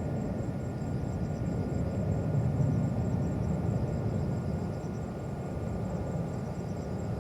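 Low, steady jet rumble of a Singapore Airlines Airbus A380 taking off, swelling slightly around the middle.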